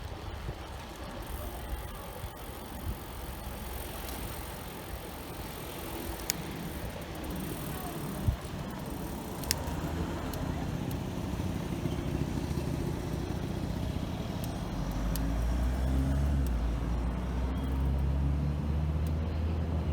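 City street traffic heard from a bicycle, with a few sharp clicks. About fifteen seconds in, a motor vehicle's low engine rumble grows louder close by and continues.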